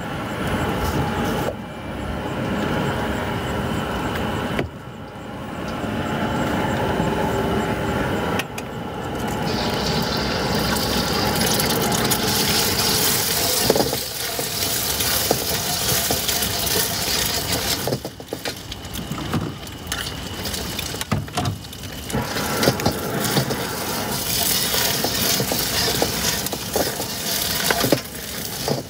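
Eggs frying in hot oil, a steady sizzle that turns louder and hissier about ten seconds in, with occasional knocks of a utensil against the pan.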